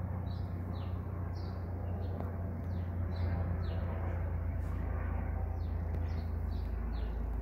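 Small birds chirping, short high notes about twice a second, over a steady low rumble.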